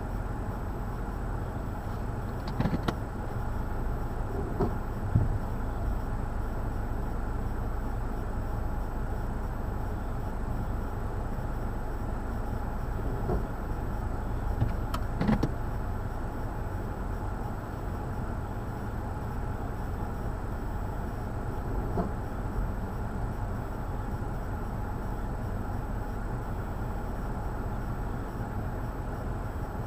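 Steady low rumble of outdoor city ambience, with a few brief knocks scattered through.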